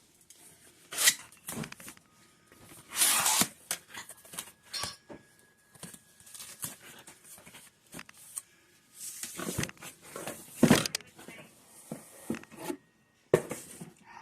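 A mailed package being opened by hand: irregular tearing and rustling of the packaging, with several louder rips in between.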